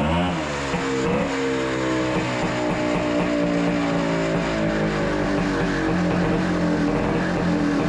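Honda Odyssey FL250's rebuilt single-cylinder two-stroke engine running. Its revs waver in the first second or so, then hold and slowly sag. This engine runs well but won't hold a steady idle.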